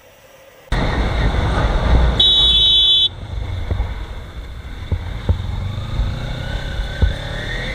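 Road noise from riding in traffic, with wind and engine rumble starting abruptly a little under a second in. A vehicle horn honks once, for about a second, about two seconds in, and later an engine note slowly rises in pitch.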